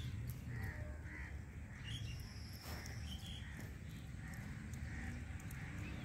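Birds calling in short, harsh, repeated calls, about two a second, over a low steady rumble.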